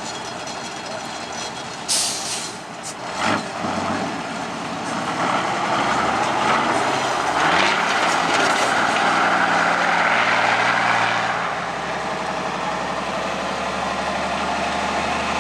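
Heavy truck engine running and working harder under load, with two sudden hisses of released brake air about two seconds in and again a second later.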